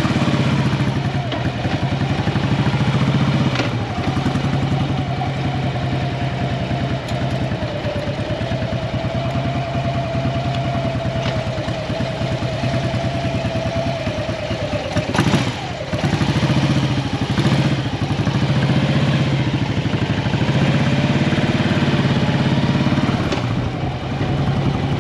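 Harley-Davidson Road King's V-twin engine running steadily, its firing pulses loud throughout, with one short knock about fifteen seconds in.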